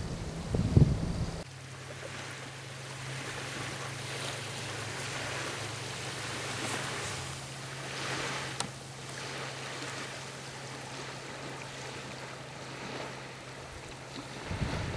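Small waves lapping and washing at a lake shore, swelling and fading, over a steady low hum. Wind buffets the microphone at the start with one loud gust, then drops away suddenly.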